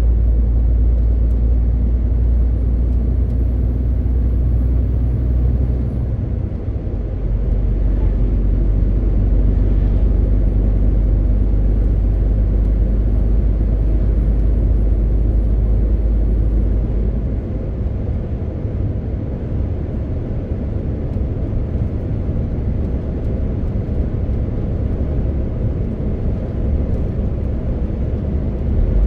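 MAN TGX 18.520 truck's straight-six diesel engine running under way with road noise: a deep, steady rumble that dips briefly about six seconds in and eases to a lower level from about seventeen seconds on.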